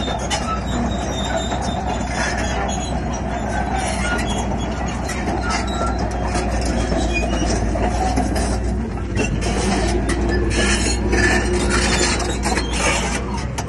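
Crawler bulldozer working: its diesel engine runs with a steady low hum while the steel tracks clank and rattle, the clanking growing busier in the second half.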